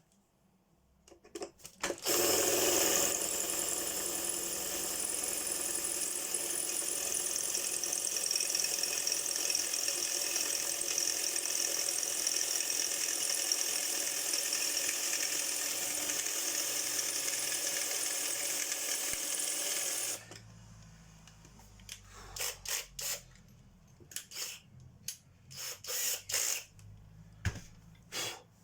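A power tool runs steadily for about eighteen seconds, then stops abruptly. Scattered clicks and knocks of parts and tools being handled follow.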